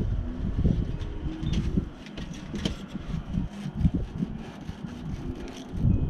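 Wind buffeting the microphone in uneven gusts, with scattered light clicks and taps throughout.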